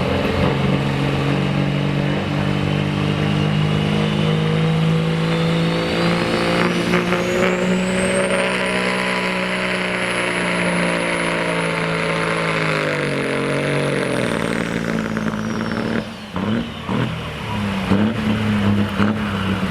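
Diamond T semi truck's turbocharged diesel engine running flat out under load, with a high turbo whistle that climbs over several seconds and holds. About fourteen seconds in, the engine and the whistle wind down together, and it runs rougher and choppier after that.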